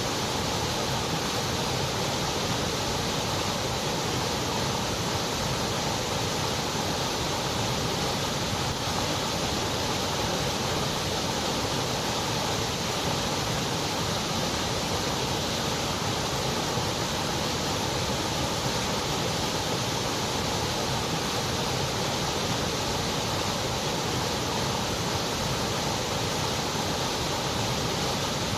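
Continuous white noise: an even, unchanging hiss.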